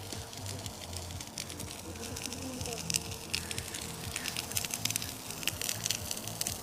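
Wood campfire crackling, with many sharp pops that come thicker in the second half.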